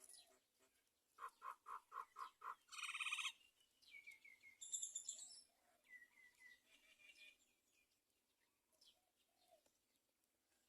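Young common mynas calling: a quick run of about seven short calls, then a harsh buzzy call, then more scattered calls that thin out after the middle.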